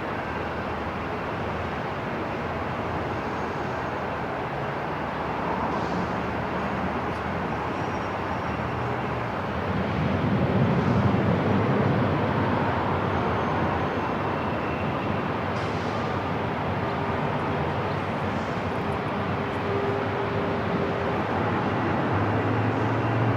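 Steady airport ambience: an even, low rumble with a few faint clicks, swelling briefly about ten seconds in.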